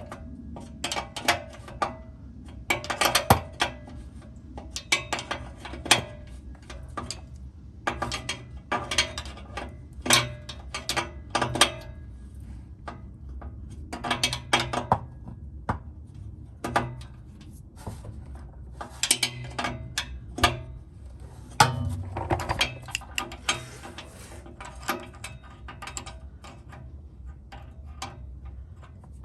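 Ratchet wrench clicking in short runs of rapid clicks with brief pauses between, as the exhaust test-pipe bolts are turned.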